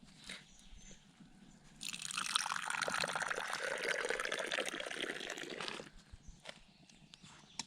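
Liquid being poured into a container, a steady rush for about four seconds that starts about two seconds in and stops abruptly.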